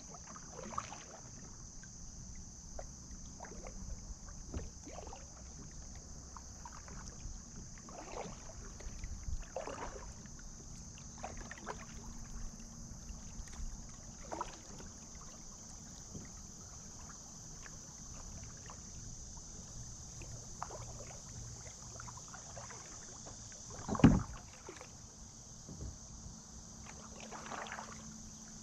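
Kayak paddle strokes dipping and splashing in the water at an uneven pace, over a steady high hiss. One sharp knock comes late on.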